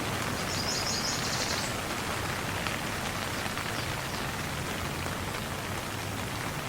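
Steady rain falling and pattering on surfaces, an even hiss of drops. About half a second in there is a brief run of high chirps that lasts about a second.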